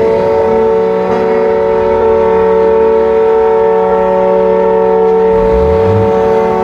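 Many truck air horns blown together at once, a loud steady chord of several held notes, with a brief low rising tone about five and a half seconds in.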